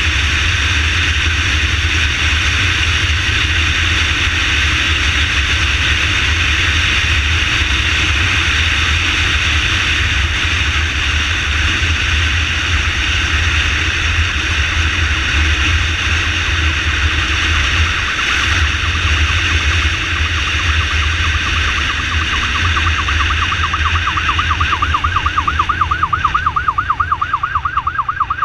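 Motorcycle ambulance siren sounding over the steady rumble of the bike and wind on the move. Near the end it switches to a rapid, louder warble.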